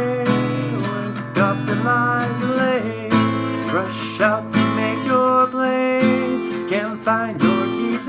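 Strummed acoustic guitar playing an instrumental passage, steady chords with a melody line of bending notes over them.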